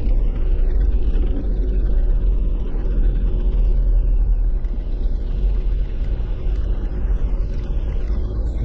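Jeep driving, its engine and tyres making a steady low rumble.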